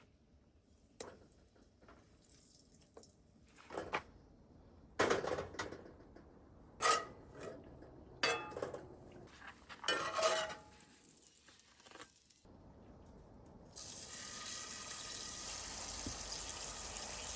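Cookware and utensils clattering and clinking in short scattered bursts. About fourteen seconds in, a steady sizzle of food frying in a pan starts.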